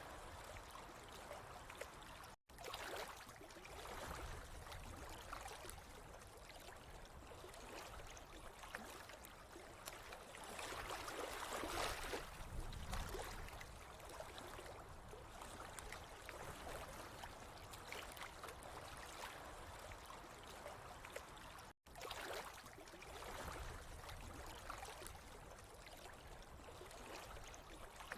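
Water running and trickling with a soft gurgle, swelling louder around the middle. The sound drops out completely for an instant twice.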